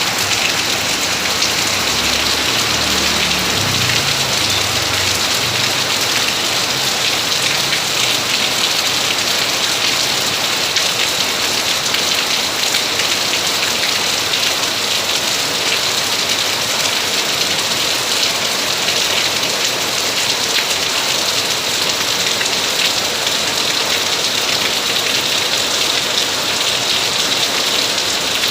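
Rain falling steadily on surfaces, an even hiss of countless drops, with a faint low rumble a few seconds in.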